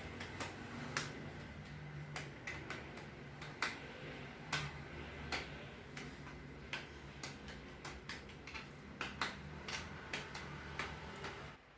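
Irregular light clicks and taps of telescope and tripod parts being handled and fitted together, over a faint steady low hum.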